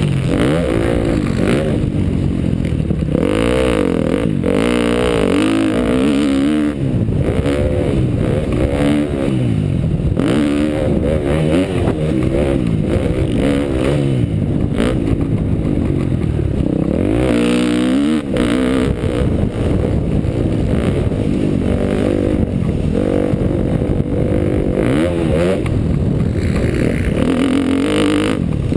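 2012 KTM dirt bike engine revving up and falling back again and again as the throttle is opened and closed.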